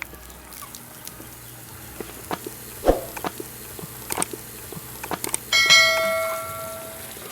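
A few light knocks and clicks, then a metal object is struck about five and a half seconds in and rings like a small bell, fading over about a second and a half.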